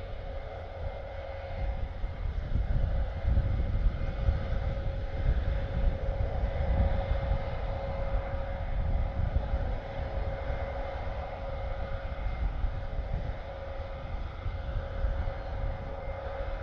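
Airbus A400M's four turboprop engines running steadily at a distance, a held whine over a low rumble, growing a little louder about two seconds in.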